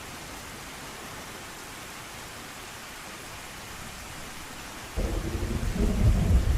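Steady rain hissing, then a loud rumble of thunder breaks in suddenly near the end and keeps rolling.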